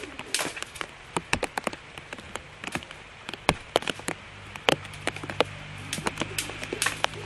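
Raindrops tapping on a surface close to the microphone: sharp, irregular ticks, several a second. About four and a half seconds in, a low steady hum joins them.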